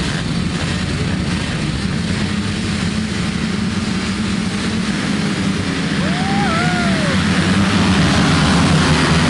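A pack of motocross bikes' engines running hard at high revs in a dense, overlapping drone that grows louder near the end. About six seconds in, a short pitched sound rises and falls over the engines.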